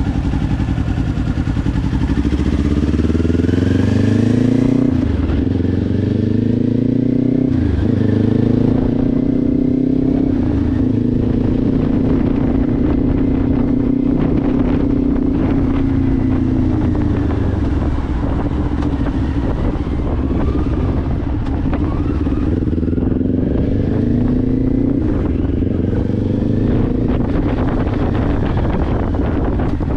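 Kawasaki Ninja 500 parallel-twin engine through a Leo Vince aftermarket exhaust, under way. It accelerates with two quick upshifts, about five and eight seconds in, then settles into a steady cruise with small rises and falls in revs.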